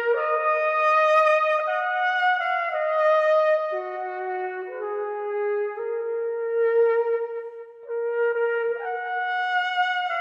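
Slow brass music led by a trumpet, long held notes stepping through a melody, at times with two notes sounding together.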